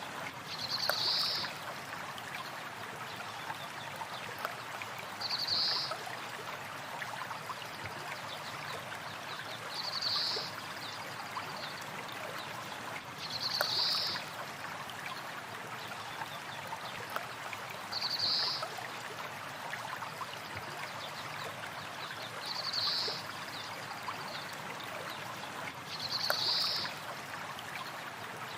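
A river or stream flowing steadily, with a short, high bird call about every four and a half seconds, seven times in all.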